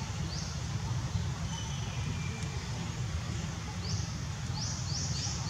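A bird giving short, high rising chirps: one about half a second in, then a quick run of them from about four seconds in, over a steady low rumble.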